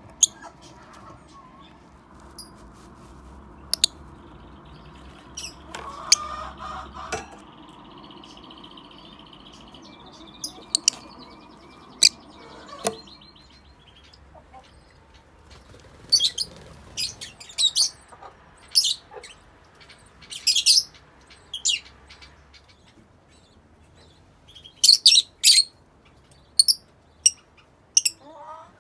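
Yellow-collared lovebirds giving short, sharp, high chirps, singly and in quick runs, with a burst of several calls close together near the end. A low steady hum underneath stops about halfway through.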